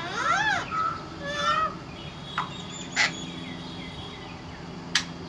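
Parrot calling: a loud squawk that rises and falls in pitch, then a quick run of short notes, followed by a few sharp clicks and a faint thin whistle.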